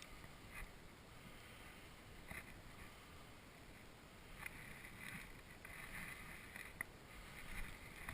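Faint footsteps through snow, a soft crunch every second or two that comes more often in the second half.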